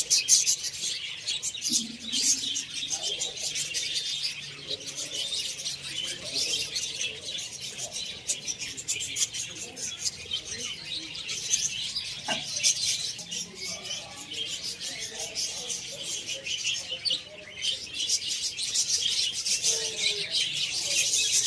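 A flock of small birds chirping continuously in a dense, overlapping twittering chatter.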